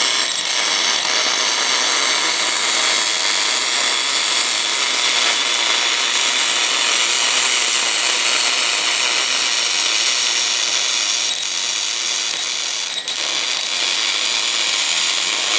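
Elsa Supercombinata Compact portable boring and bore-welding machine working on a cast-iron part: a loud, steady hiss with a faint high whine.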